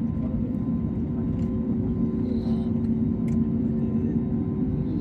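Airbus A320neo cabin noise during the climb: a steady low rumble of the engines and airflow, with a constant hum of several steady tones over it.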